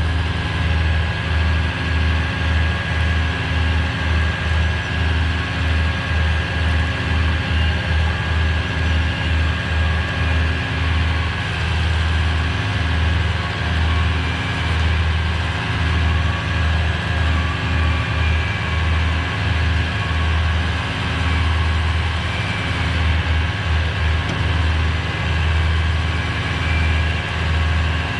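Tow truck's engine running steadily at idle while its hydraulic winches hold two lines under load, with a steady high whine over the low engine throb.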